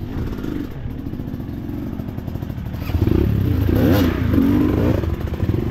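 Off-road motorcycle engine running, getting louder and revving up from about three seconds in, with one sharp clack about four seconds in.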